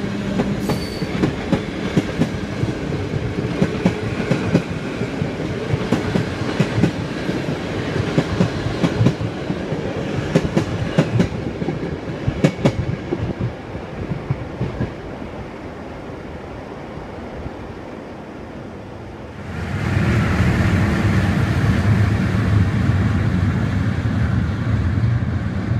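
Passenger coaches clattering over a level crossing, the wheel knocks dying away as the end of the train passes. About three-quarters of the way in, a diesel shunting locomotive's engine starts up as a steady low hum.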